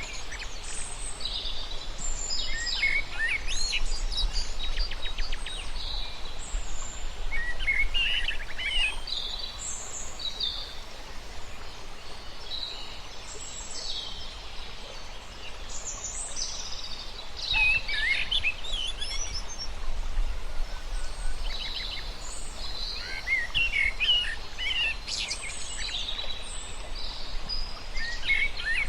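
Several birds chirping and singing at once: many short overlapping high calls and quick trills, over a steady low rumble.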